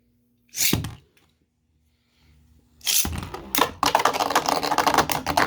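A short scrape just under a second in. About three seconds in, Beyblade tops launch and spin in a plastic stadium, with a dense, rapid clatter of clicks as they clash.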